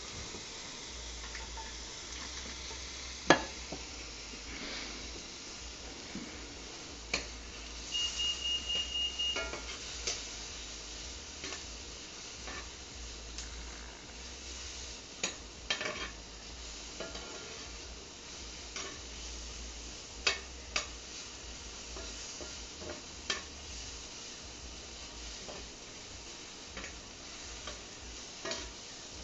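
Food sizzling in a pan on the stove, with a utensil stirring and knocking against the pan now and then. A quick run of high beeps sounds about eight seconds in.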